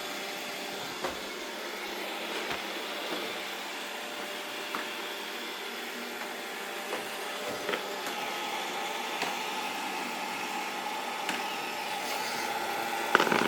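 Robot vacuum cleaner running steadily, its motor and brushes humming with a few light clicks, a higher hum joining about two-thirds of the way through. A sharp knock near the end.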